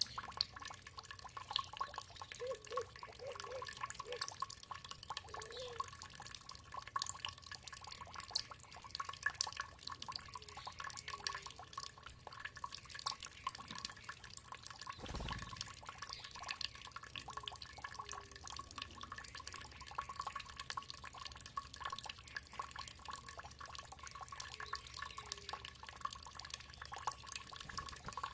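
Water trickling and dripping steadily in many small drops, with a few faint short bird calls early on and a single soft low thump about halfway through.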